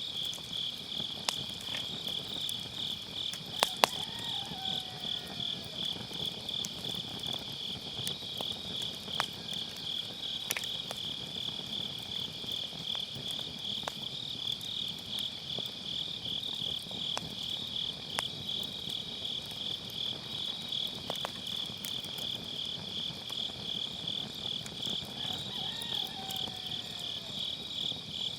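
Autumn night insects chirping in a steady, pulsing high trill, over a wood fire crackling with scattered sharp pops, the loudest a quick pair about four seconds in.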